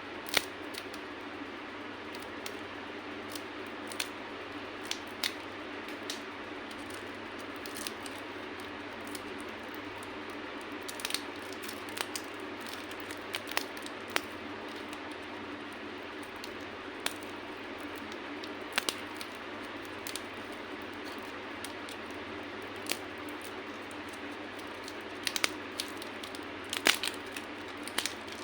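Candy being crushed: scattered sharp cracks and crackles at irregular moments, some in quick clusters, over a steady background hiss.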